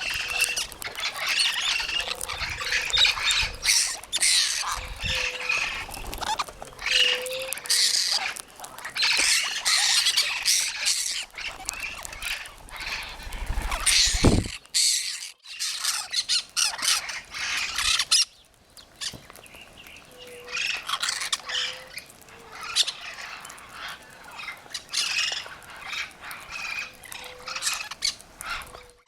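A flock of parrots squawking and screeching while feeding, harsh calls coming in quick overlapping bursts, with a brief lull about two thirds of the way through.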